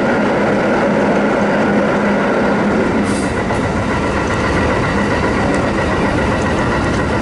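Kintetsu 7000 series electric train running, heard from inside at the front: a steady rumble of wheels on rail with a steady motor whine, and a brief hiss about three seconds in.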